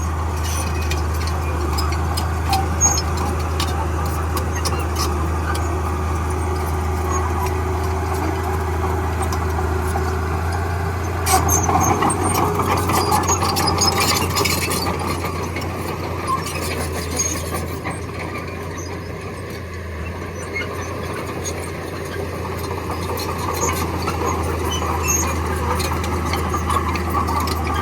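Heavy earthmoving machinery at work: a diesel engine running steadily under load, with scattered metallic clanks and squeaks. It gets louder for a few seconds about eleven seconds in.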